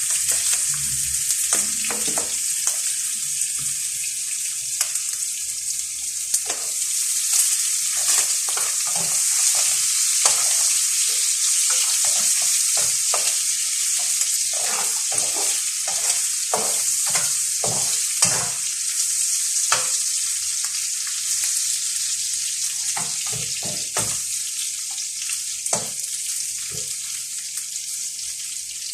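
Garlic frying in a hot pan with a steady sizzle, stirred now and then with a utensil that knocks and scrapes against the pan.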